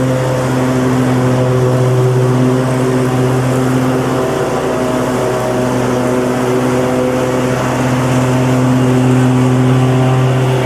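Lawn mower running with a steady, even drone.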